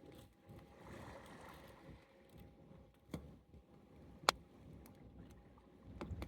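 Wood fire burning over a low rumble, with a few sharp crackling pops, the loudest about four seconds in.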